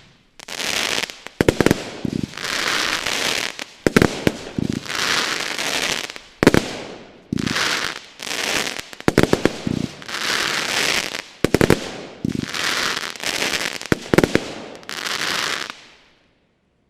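Nordlicht 'Hardcore-Fan', a 36-shot 25 mm firework cake, firing in repeated volleys. Each group of two or three sharp launch thumps is followed by about a second of bursting effects. The volleys repeat about every two and a half seconds, and the cake stops about 16 seconds in.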